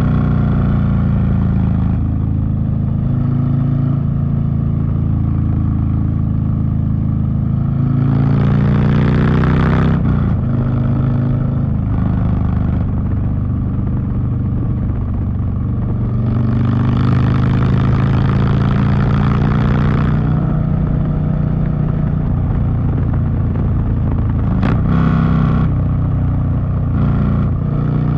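Harley-Davidson Street Bob V-twin running through a TBR 2-into-1 exhaust while riding. It holds a steady cruise, then pulls harder about eight seconds in and again around sixteen seconds, each time rising in pitch with a rush of wind noise, and gives a shorter burst near the end.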